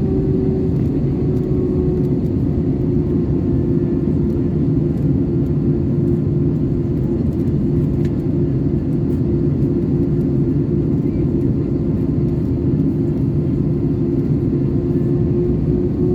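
Steady cabin drone of an Airbus A320-214 in flight, its CFM56 engines and the airflow giving a deep, even rumble with a steady hum over it.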